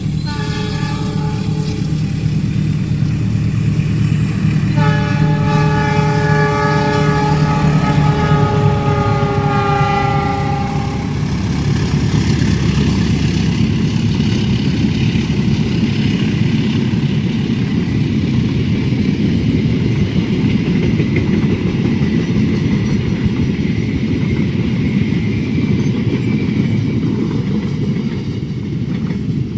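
Train horn sounding a short blast, then a long one of about six seconds, over the loud steady rumble of a train passing the crossing. The rumble continues after the horn stops.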